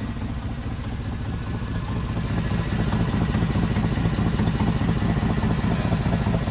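2004 Chevrolet Silverado dump truck's engine idling, with the rapid tick of an exhaust leak at the manifold, where the front manifold bolt is broken. It gets louder about two and a half seconds in.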